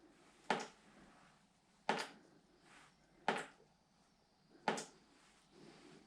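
Water from a ceiling leak dripping into a container, one drop about every second and a half, each a sharp tap with a short ring. The drip is slow and steady, not speeding up: the sign that the repaired leak is only draining off.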